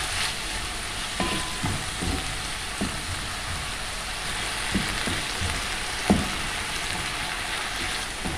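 Chicken, garlic and onion sizzling steadily in hot oil in a pan. A cooking utensil knocks against the pan several times as the food is stirred, loudest about six seconds in.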